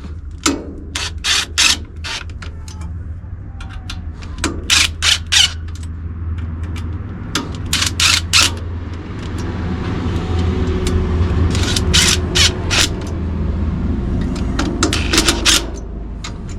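Power driver with an Allen bit driving in the carburettor adapter-plate bolts, whirring in short spells. Sharp metallic clicks come in small clusters of two to four every few seconds over a steady low hum.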